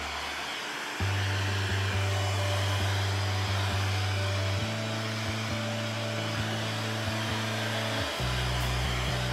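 Corded heat gun blowing steadily, a continuous hiss of hot air, with background music and a bass line playing underneath.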